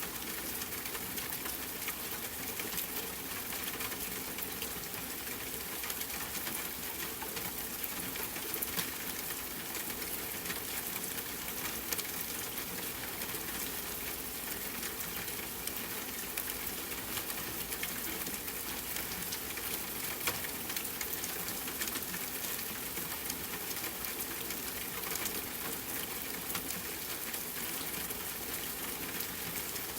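Steady rain falling, mixed with a campfire crackling, with occasional sharper pops.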